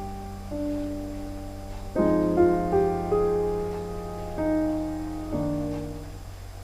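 Gentle background piano music, chords and single notes struck every second or so and left to ring, fading out near the end.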